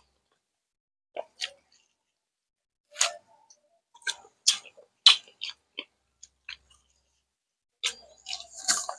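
Close-miked eating sounds: scattered short wet mouth smacks and chewing clicks, a few a second, growing busier and louder near the end.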